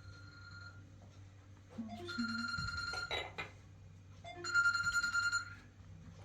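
A phone ringing: an electronic ring tone sounds twice, each ring about a second long and starting with a short lower blip before a steady high tone, the first coming about two seconds in.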